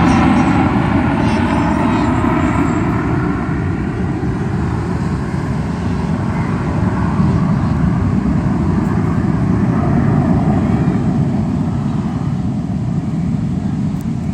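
Loud roar of an aircraft passing over, its pitch sliding down as it goes by in the first couple of seconds, then a steady roar that slowly fades.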